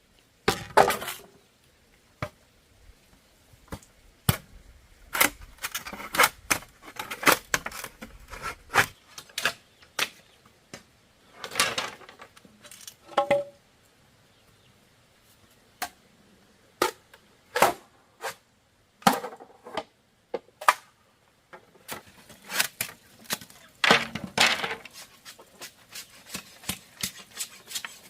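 Irregular sharp knocks and clacks of bamboo being worked by hand, single strikes and quick clusters with short pauses between.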